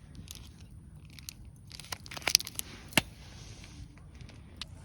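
Eating sounds: scattered small clicks and crunches, typical of chopsticks picking at fish on a dish and chewing. The sharpest clicks come twice, a little after two seconds and about three seconds in.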